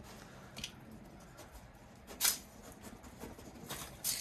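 A dog sniffing as it searches for a scent hide: three short, sharp sniffs about two seconds apart, the middle one loudest, over a faint room background.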